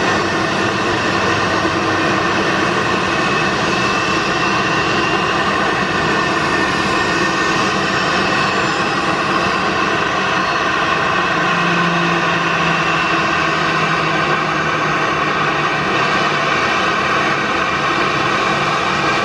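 Boeing 737-800's CFM56 turbofan jet engines running steadily, a loud, even whine with several held tones.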